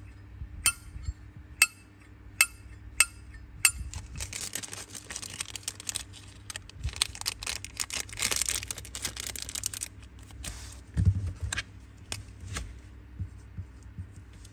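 Sharp metallic clicks, about one every half to one second, from a brass Zippo lighter case being handled. They are followed by several seconds of rustling and scraping, then a few dull knocks.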